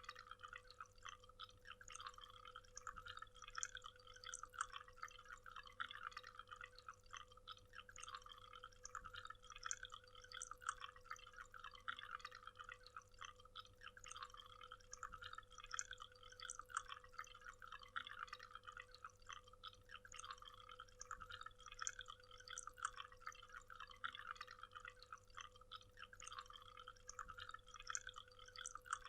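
Waterfall: water splashing and dripping in a dense, steady patter, faint.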